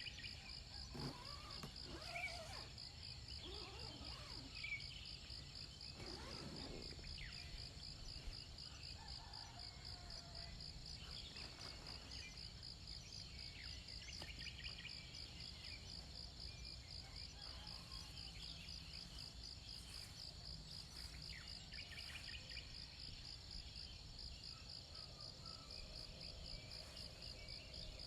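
Faint, steady chorus of crickets or similar insects: a high, rapidly pulsing trill that never stops, over a low rumble, with scattered short chirps and calls, most of them in the first half.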